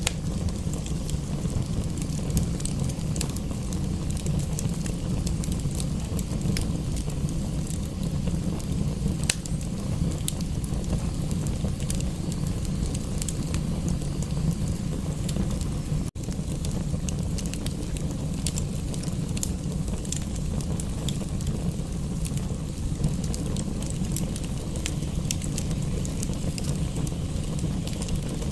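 Wood fire in a fireplace crackling: scattered sharp pops and ticks over a steady low rumble. The sound drops out for an instant just past halfway.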